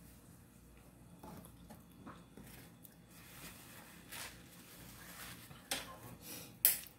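A person chewing food softly, with scattered small clicks and two sharper clicks near the end.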